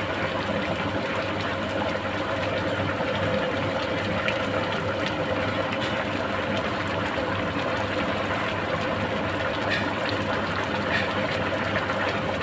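Rice boiling in a large pot of salted water over a gas burner: a steady bubbling, rushing noise with a low hum, and a few faint ticks.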